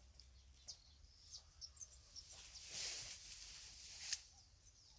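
Faint outdoor ambience: scattered short, high chirps, with a swell of rustling noise building and fading in the middle and ending on a sharp click.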